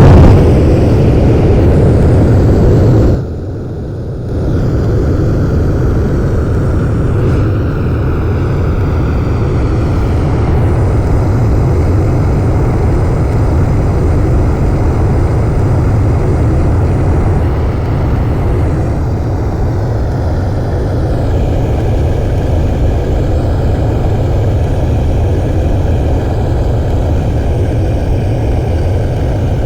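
Airplane noise: a loud, steady rumble. It dips sharply for about a second just after three seconds in, then carries on steady.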